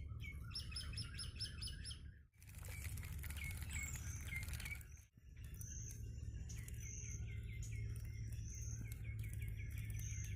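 Several birds chirping and calling: quick runs of short repeated notes and higher whistled notes, over a steady low rumble of wind or background noise. The sound drops out abruptly twice, about two seconds in and again about five seconds in.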